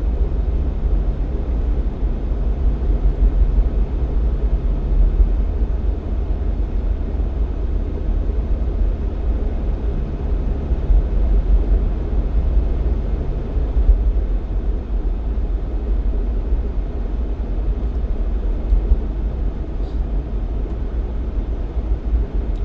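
Jeep Cherokee XJ on the move: a steady low rumble of engine and road noise, with a faint hum that comes in for the first few seconds and again about halfway through.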